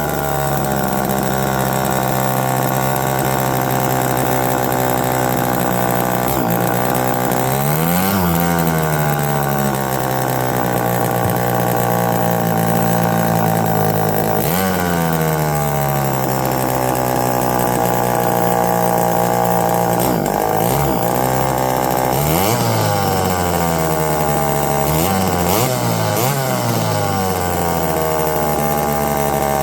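Homelite EZ two-stroke chainsaw engine running on the bench with no air filter fitted. It runs steadily at idle and is revved up and back down several times: once about 8 s in, once about 14 s in, and in a quick series near the end.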